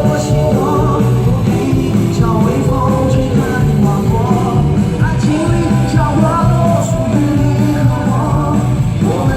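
A rock song performed live: sung vocals over a full band, loud and continuous.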